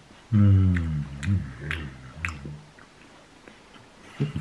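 Someone chewing a snack with the mouth close to the microphone, with several short sharp clicks and crunches. Overlapping it near the start is a low, drawn-out vocal sound, like a hum or groan, that slides down in pitch for about two seconds.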